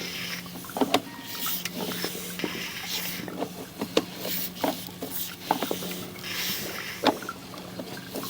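Sewer inspection camera and its push cable being fed along an SDR plastic sewer line: irregular clicks, knocks and short scrapes as the camera head rubs and bumps along the pipe, over a steady electrical hum.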